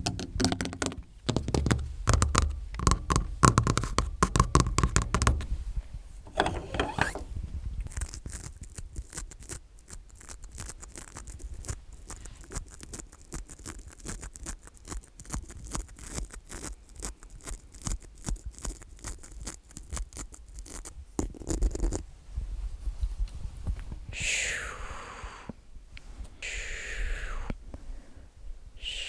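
Rapid close-up tapping and clicking, like long fingernails tapping and scratching on objects right at the microphone, with low handling rumble in the first few seconds and a few softer swishing sounds near the end.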